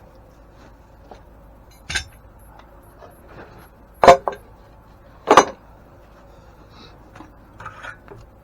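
Small metal parts and tools clinking as they are handled and set down: three sharp clinks, the loudest about four seconds in, then a few lighter taps near the end.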